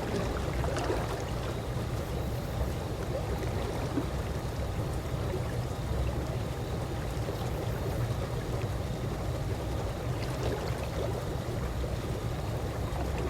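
Calm swimming-pool water lapping and sloshing gently: a steady low wash with small, scattered watery plinks.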